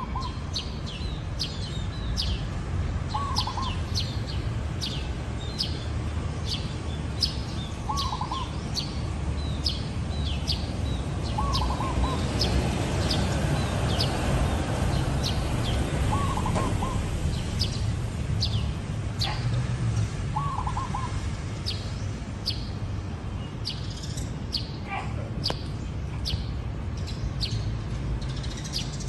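Zebra dove cooing: short warbling coos that repeat about every four seconds. Behind them, other small birds chirp rapidly and steadily at a higher pitch, over a steady low background noise.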